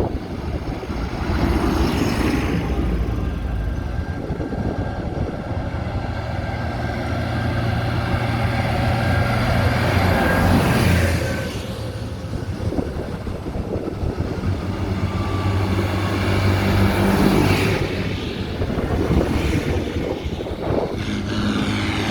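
Tractor engines running as tractors drive past one after another, each passing swelling louder and then fading, with steady low engine drone throughout.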